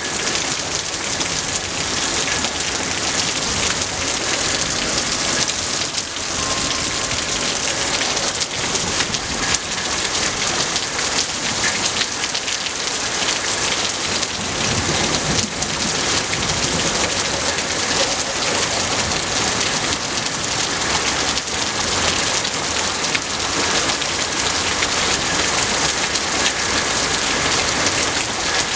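Heavy rain falling steadily: a dense, even hiss of drops that stays at the same level throughout.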